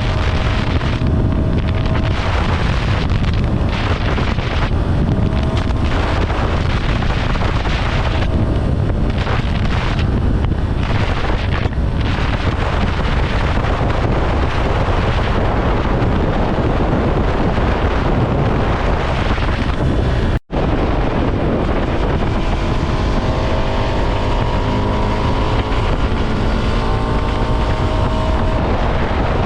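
Ducati Scrambler Sixty2's 399 cc air-cooled L-twin running on the road under heavy wind buffeting on the microphone. The sound drops out for an instant about two-thirds through, and then the engine note climbs steadily as the bike accelerates.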